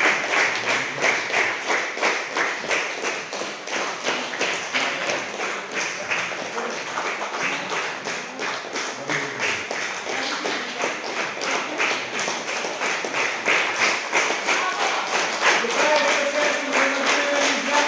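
Audience clapping in unison, a steady beat of about three claps a second. A few held tones join near the end.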